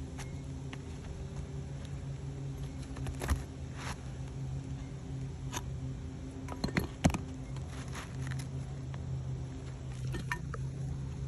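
Steady low machine hum with scattered light clicks and taps, and two sharper knocks, about three seconds and seven seconds in.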